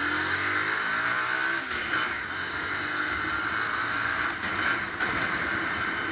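A vehicle engine revving up, its pitch rising over the first second and a half, then steady traffic and engine noise.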